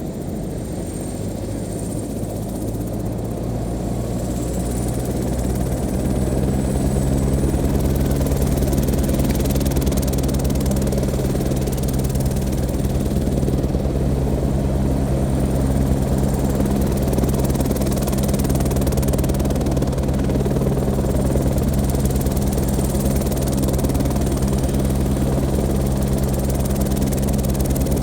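Airbus H125 helicopter's turbine engine and main rotor running up for takeoff, growing louder over the first several seconds, then holding a steady, even rotor beat with a faint high whine above it.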